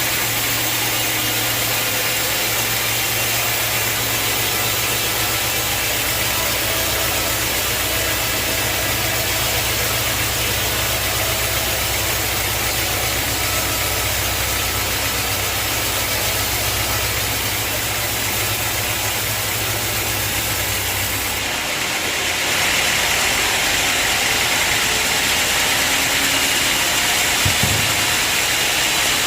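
Sawmill machinery running: a steady low engine hum under a constant wash of mechanical noise. The hum cuts off about three-quarters of the way through, and the higher noise then gets louder.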